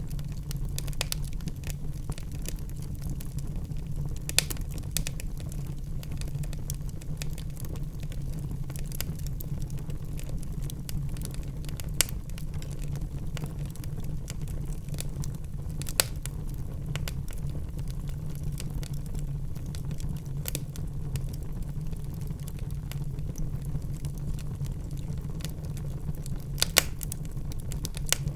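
Wood fire crackling in a fireplace: a steady low rumble of burning with fine crackle and scattered sharp pops a few seconds apart, two in quick succession near the end.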